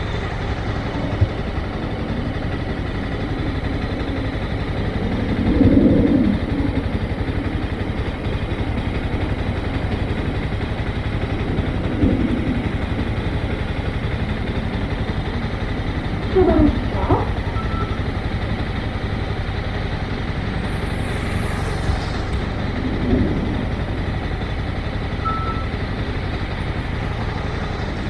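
Motorcycle engine running steadily at low revs, with a few brief louder swells and a short hiss late on.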